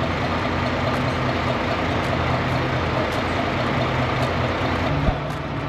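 Vehicle engine running steadily, with a single knock about five seconds in, after which the engine note changes.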